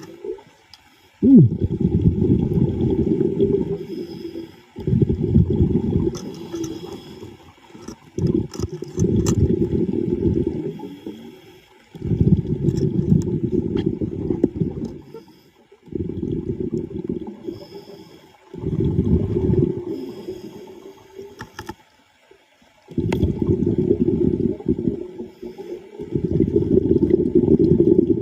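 A diver's exhaled air bubbling out underwater in a steady breathing rhythm: repeated low rushing bursts of two to three seconds each, one per breath, with short quiet gaps for the in-breaths.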